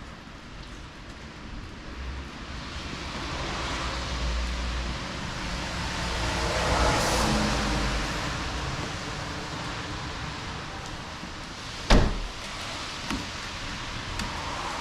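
A vehicle's road and tyre noise swelling to a peak and fading away, like a car going by. About twelve seconds in there is one sharp knock, louder than anything else, with a smaller knock just after.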